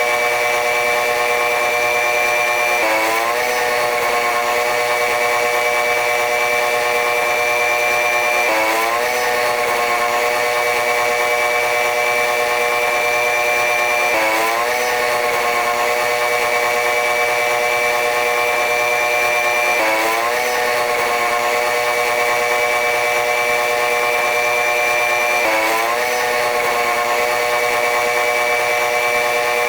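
Train running noise: a loud, steady machine whine made of several tones. About every five and a half seconds the tones dip and sweep sharply back up, in an even repeating cycle.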